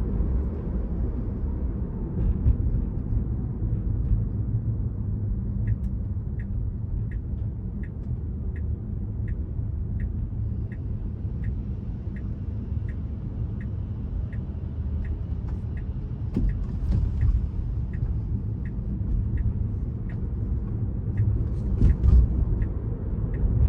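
Low, steady road and tyre rumble inside a Tesla's cabin, with the car's turn-signal indicator ticking evenly about once every 0.7 seconds from about six seconds in, as the car self-signals for an upcoming lane change.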